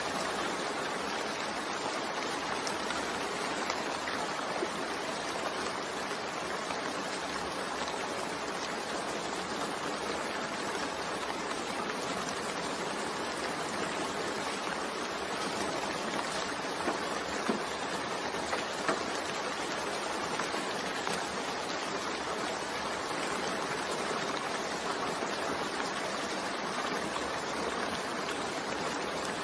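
Steady rain falling, an even hiss with faint scattered drop ticks; a few slightly sharper drops stand out near the middle.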